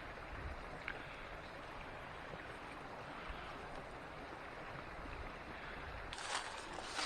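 Steady rush of a small creek's running water, with a louder rustling burst near the end.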